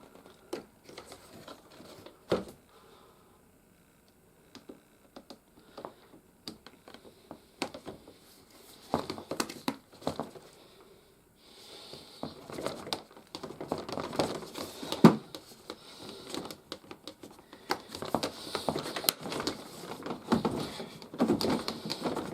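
Plastic toy playset parts being handled and pushed together: irregular clicks, taps and rattles with some rustling, and one sharper click about fifteen seconds in.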